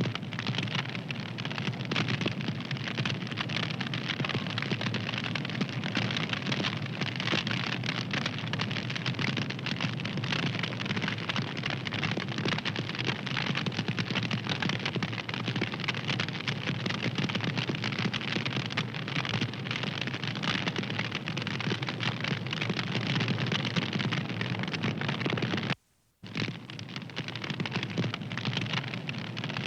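Wood fire crackling, with a dense steady run of small pops and snaps over a soft hiss. The sound cuts out for a split second about 26 seconds in, then resumes.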